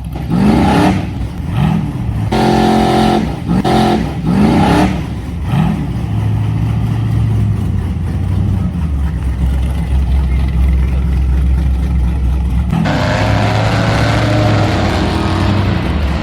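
A vehicle motor revving in about five short bursts that rise and fall in pitch, then running steadily at a low pitch; about four seconds from the end a higher, wavering tone joins it.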